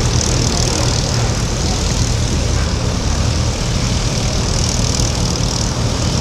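Fairey Swordfish biplane's Bristol Pegasus radial engine and propeller droning steadily in flight.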